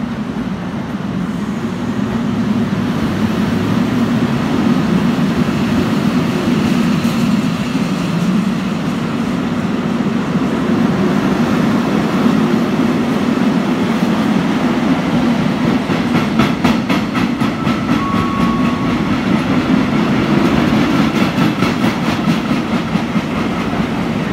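A train running through a station on the nearest track: a steady heavy rumble of wheels on rail. From about halfway through, a fast regular clatter of wheels over rail joints comes in.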